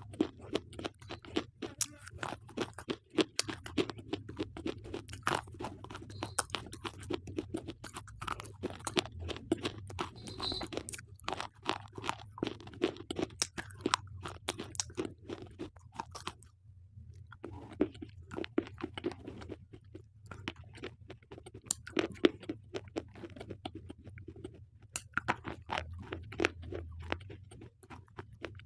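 Slate pencils being bitten and chewed: a dense, irregular run of sharp, gritty crunches, with a pause of about a second just past the middle.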